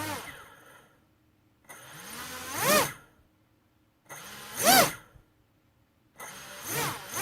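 Small brushless drone motor driven by a BLHeli electronic speed controller, throttled up in short bursts about every two seconds: each burst climbs to a high whine and drops away, with near silence between. A faint high-pitched switching whine sits over the motor sound while it spins.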